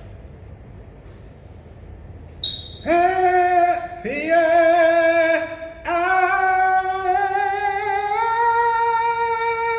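A single voice practising sustained notes, with no words: three held notes, each scooped up into the pitch. The third is held for about four seconds and creeps slightly higher. The notes start about three seconds in, after a quiet stretch of room tone.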